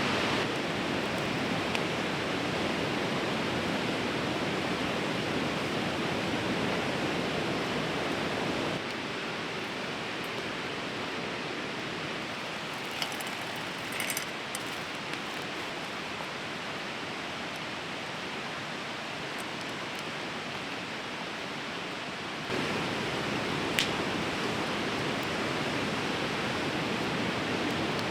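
Steady rush of a fast-flowing river, very loud, dropping to a lower level about nine seconds in and coming back up about twenty-two seconds in. A few faint short ticks in the middle and one sharp tick near the end.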